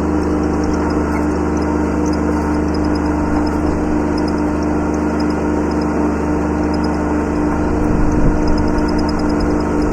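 Kubota B7100 subcompact tractor's three-cylinder diesel engine running at a steady speed, swelling briefly about eight seconds in.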